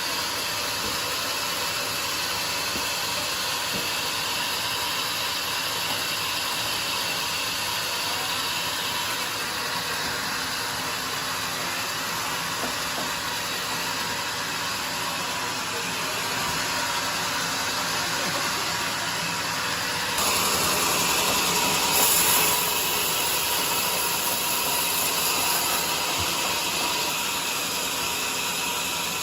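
Band sawmill running with a steady, hissing machine noise that grows louder and harsher about twenty seconds in.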